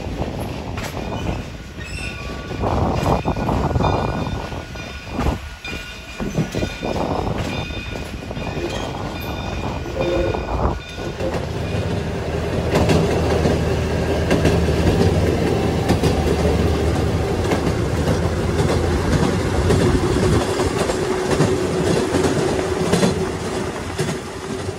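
Excursion train running on the rails, heard from a passenger coach: wheel and rail noise with clicking over the track and thin high squealing tones as the wheels take a curve. About halfway through the sound changes to a steadier train drone with a long held tone, which fades out at the very end.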